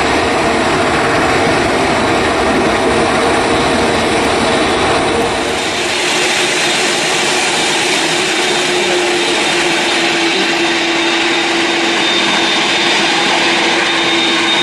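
Jet airliner's engines running loud and steady, a whining tone over a broad roar. About five and a half seconds in the deep rumble drops away and the whine shifts to a lower pitch, with a high whine strengthening near the end.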